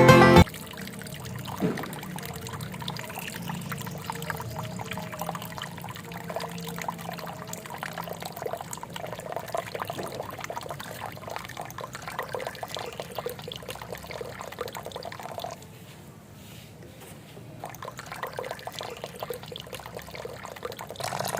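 A small stream of water pouring and trickling steadily, dropping quieter for a couple of seconds about two-thirds of the way through.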